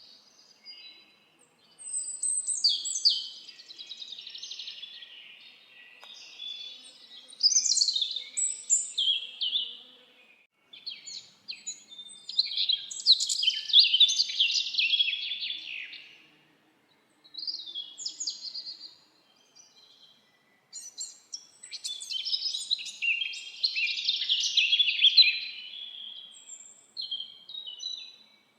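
Songbirds singing in a forest: high, rapid chirping phrases a few seconds long, separated by short pauses.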